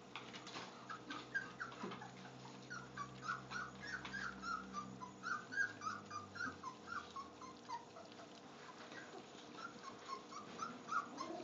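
Golden retriever puppies whimpering: a steady run of short, high, falling squeaks.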